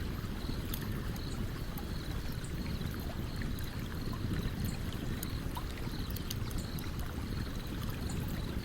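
Campfire beside a stream: the steady low rush of flowing water under scattered sharp crackles and pops of burning wood, with a faint high chirp repeating about three times a second.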